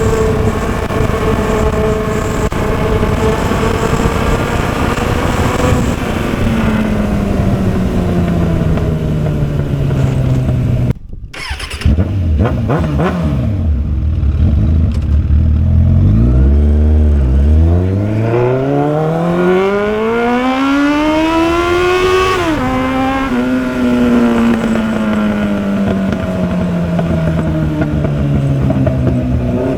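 Motorcycle engine heard while riding. The revs fall away for several seconds, then climb steeply, drop abruptly at a gear change about two-thirds of the way in, and fall away slowly again.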